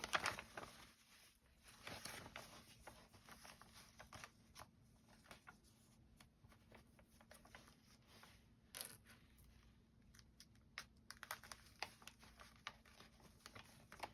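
Faint, scattered rustling and small clicks of foundation paper and fabric being handled during paper piecing, over a faint steady hum.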